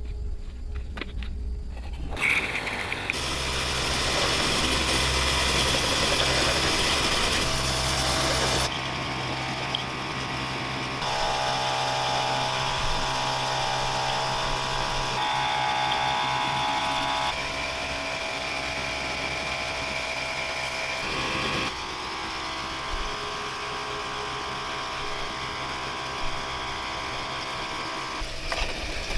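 A small motor running steadily, its pitch and tone changing abruptly several times.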